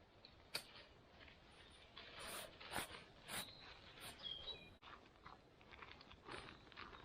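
Near silence broken by scattered small clicks, taps and rustles of handling, thickest a couple of seconds in, with a couple of faint short high chirps in the middle.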